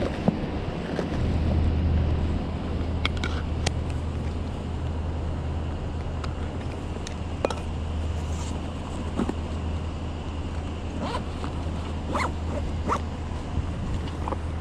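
City street ambience: a steady low rumble of traffic and wind, with scattered light clicks and taps over it.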